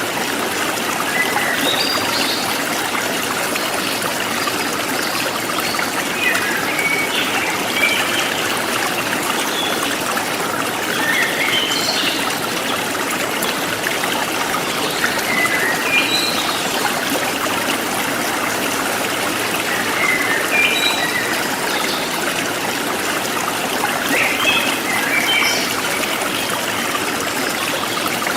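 Forest stream flowing and trickling steadily, with birds chirping in short phrases every few seconds.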